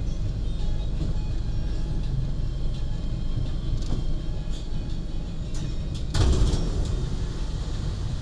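Argo Bromo Anggrek passenger train running at speed, heard from inside the coach: a steady low rumble with scattered light clicks from the wheels and rails, and a brief louder rushing burst about six seconds in.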